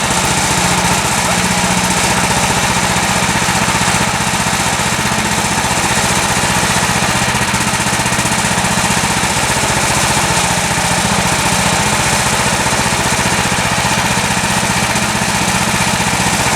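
Small gas engine of a Woodland Mills HM126 portable bandsaw sawmill running steadily at an even speed, with a fast, regular firing pulse.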